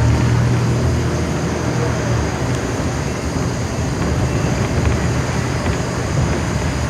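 Steady motor-vehicle noise: an engine running low with even road and traffic noise.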